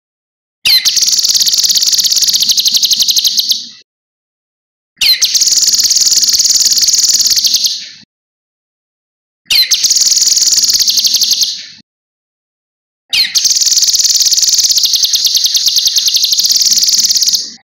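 Cucak kinoi singing: four bursts of a high, very rapid trill, each two to four seconds long and opening with a quick sweeping note, with short silent gaps between them.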